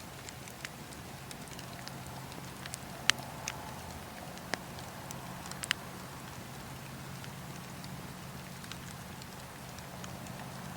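Campfire crackling: sharp pops and snaps of burning wood scattered irregularly over a steady low hiss and hum of the fire, the loudest pop about three seconds in.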